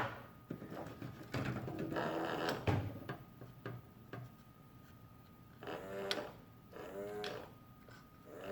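Small parts of a toy bank's mechanism clicking and rattling as they are handled, with a burst of clattering in the first few seconds. A few short pitched sounds follow near the end.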